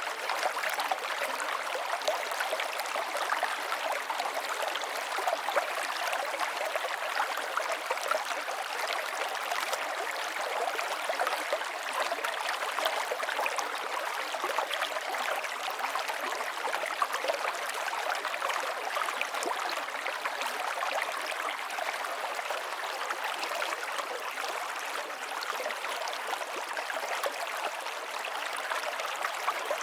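River water flowing steadily over rocks, a constant rushing and babbling with small splashes.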